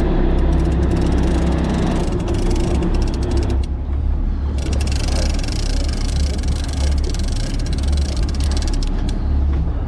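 Fishing boat's engine running steadily with a strong low hum, under a wash of wind and water noise; a higher-pitched tone in it stops about three and a half seconds in.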